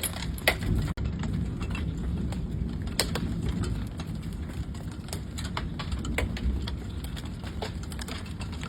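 Hailstones striking hard surfaces: irregular sharp clicks and knocks over a steady low rumble of wind.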